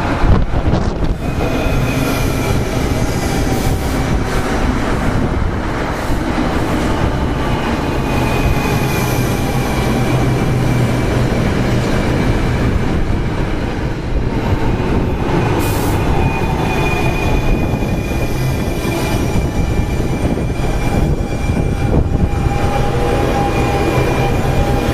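NJ Transit Arrow III electric multiple-unit cars rolling past close by, a steady rumble of wheels on rail with a high whine held over it. A brief loud knock comes just at the start.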